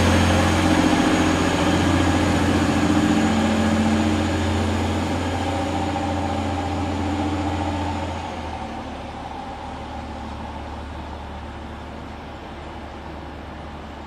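Diesel multiple unit train's engines running with a high whine as it pulls away, the sound fading and dropping off sharply about eight seconds in to a low steady rumble.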